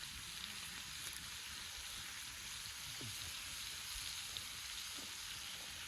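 Sliced meat sizzling as it cooks: a steady, faint crackling hiss.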